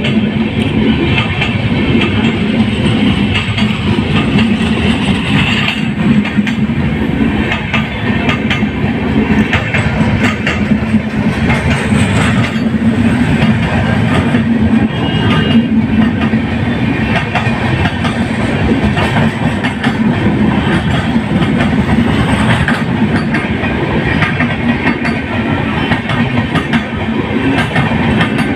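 Satyagraha Express electric train running at speed, a loud steady rumble of wheels on rails with many rapid clicks.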